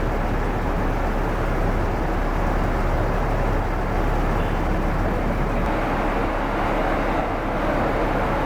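Steady vehicle running noise on the move, engine and road noise without distinct events.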